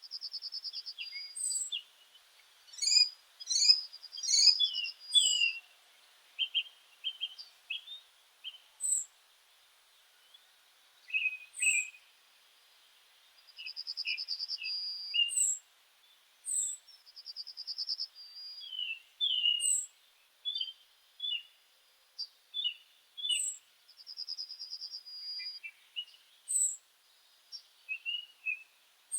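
Several meadow birds singing and calling together: a buzzy trill comes back about every ten seconds, among short high whistled notes and quick chirps.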